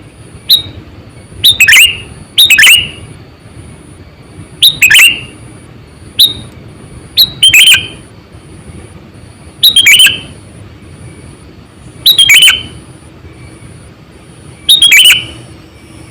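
Sooty-headed bulbul (kutilang) calling: short, loud, sharp chirps, often in quick pairs, repeated every two to three seconds. This is the bird's lure call, used by trappers to draw in wild bulbuls.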